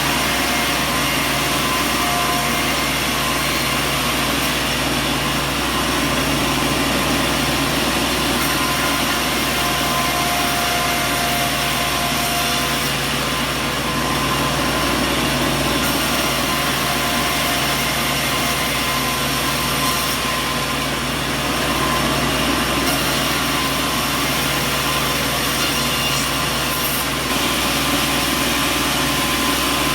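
Sawmill machinery running steadily: a constant mechanical drone with a few steady tones, and no distinct cuts or knocks.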